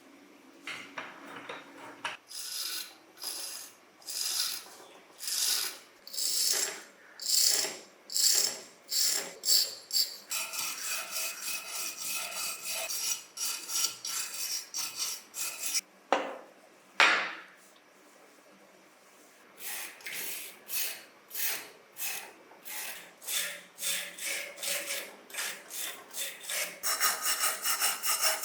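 Repeated hand abrasive strokes rubbing on the part of a toy model truck being restored. They come at about one a second, speed up to quick short strokes partway through, stop briefly after two louder strokes, then start again and quicken near the end.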